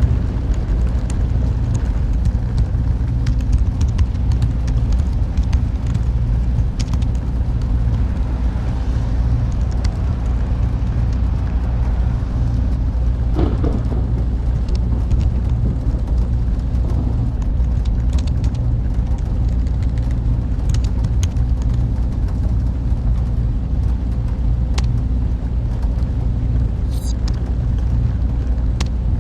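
Steady, low droning ambience of a server room: computer fans and machines running without a break, with a few faint clicks on top.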